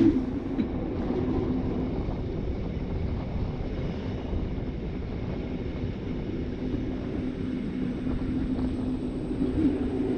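RhB ABe 8/12 "Allegra" electric train running, a steady rumble with a low hum that fades about a second in and swells again near the end.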